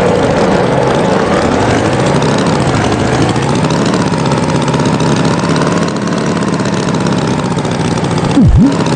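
Tractor engine running with a steady, slightly wavering drone. Near the end comes a short, loud swooping sound.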